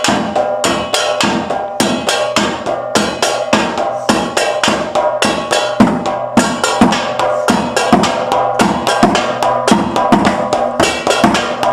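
Drum-led percussion music: fast, even drum and block hits over a held tone, ending abruptly.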